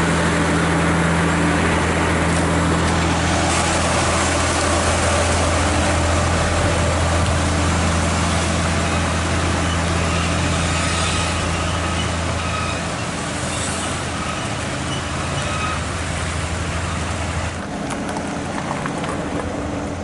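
Heavy truck's diesel engine running steadily with a deep hum, fading somewhat and dropping off near the end.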